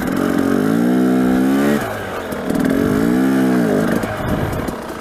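Dirt bike engine revved twice. Each throttle surge rises in pitch, holds for about a second and a half, then drops back toward idle.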